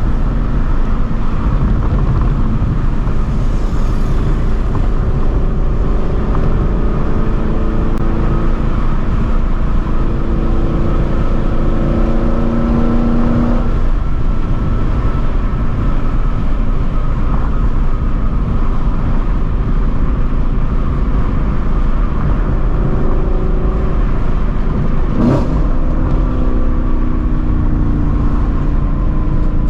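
2016 Ford Mustang Shelby GT350's 5.2-litre flat-plane-crank V8, straight-piped with long-tube headers, heard from inside the cabin during a hard high-rpm pull, the exhaust note changing pitch through the gear changes.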